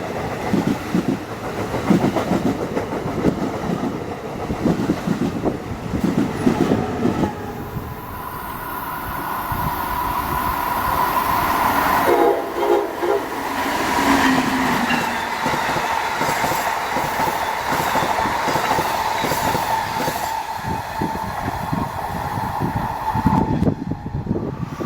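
Electric passenger train running past the platform, its wheels clattering over the rails, with a long steady whine and a short horn blast about halfway through.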